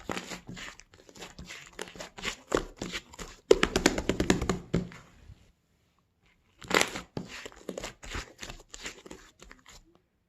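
Fluffy slime being squeezed and stretched by hand, giving bursts of crackling and popping clicks, with a short pause about halfway through.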